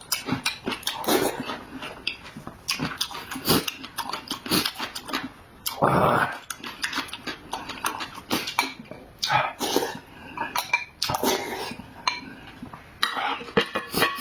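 Close-miked eating: wet chewing and slurping mouth sounds with utensils clicking against the dishes, irregular throughout, with a louder noisy slurp-like burst about six seconds in.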